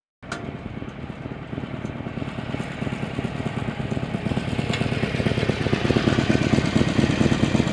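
Motorcycle engine running under way, starting suddenly about a quarter second in and growing gradually louder.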